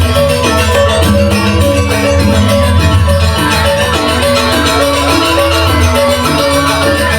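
Balinese gamelan playing: bronze metallophones ringing out a steady, rhythmic melody over a low gong and drum pulse, accompanying a dance.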